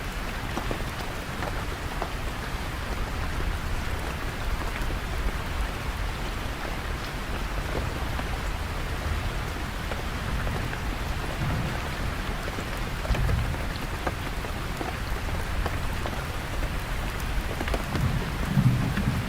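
Steady rain falling, an even hiss with scattered drops ticking on surfaces. Under it runs a low rumble that swells near the end.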